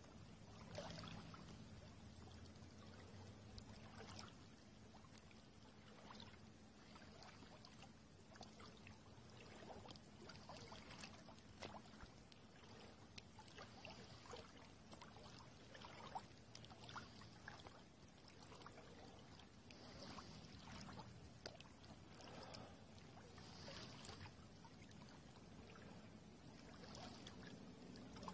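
Faint river water trickling and lapping, with many small irregular splashes and crackles.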